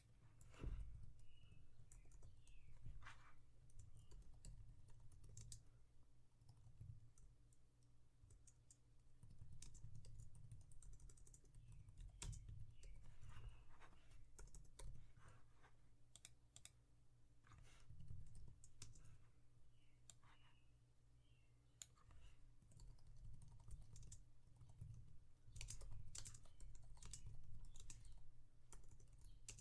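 Quiet typing on a computer keyboard: irregular clusters of key taps and clicks, with pauses between, over a low steady hum.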